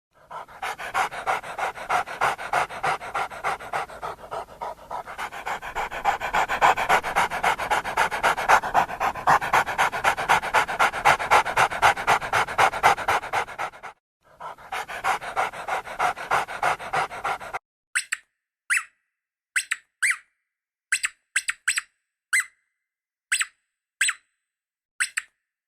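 A dog panting rapidly and evenly, about three to four breaths a second, with a short break about 14 seconds in. After a second short run of panting it stops, and a string of brief, separate high squeaks follows.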